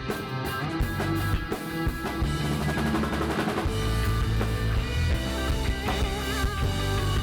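Live rock band playing an instrumental break: drum kit, bass and guitar, with the low end filling out about halfway through.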